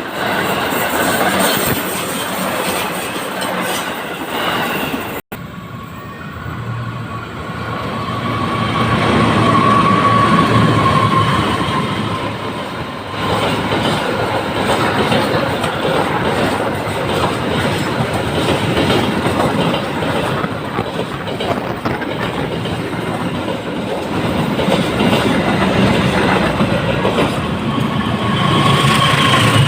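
Passing trains: steady rail and wheel noise, broken by a brief sudden drop about five seconds in.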